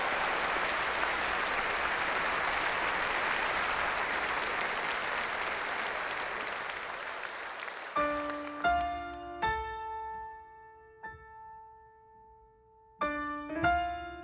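Audience applause fading away. About eight seconds in, a piano begins with a few slow, separate notes and chords that ring out and die away between strikes.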